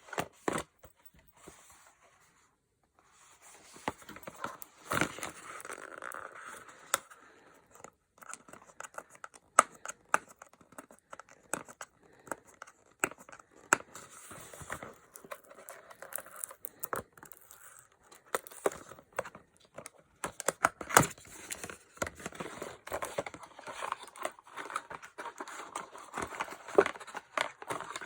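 Packaging of a stationery blind box being torn open and crinkled by hand, with many sharp clicks and taps as the wrapping and items are handled.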